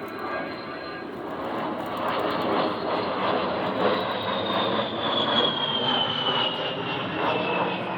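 An A-10 Thunderbolt II's twin turbofan engines passing overhead: a steady jet rush with a high whine that starts falling in pitch about halfway through.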